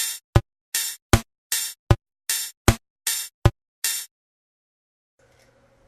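Electronic drum beat: a deep kick and a bright snare-like hit alternate evenly, about one kick and one snare every three-quarters of a second, then stop abruptly about four seconds in.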